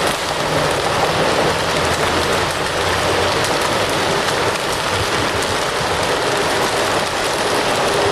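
Fire crackling steadily: a continuous hiss dense with small pops.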